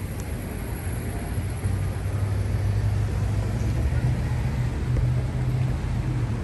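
Steady low drone of a running engine over a noisy rumble.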